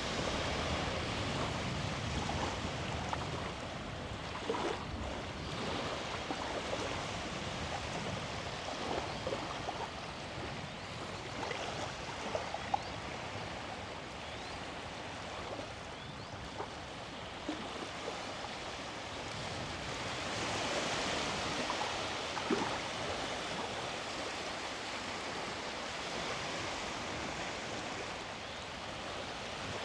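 Small sea waves washing onto the beach in a steady rush, swelling a little about two-thirds of the way through.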